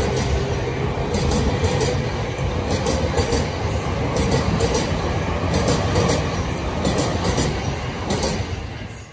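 Sobu Line local electric commuter train running past the platform: a steady rumble and motor tone, with the wheels clacking over rail joints several times a second. It fades near the end.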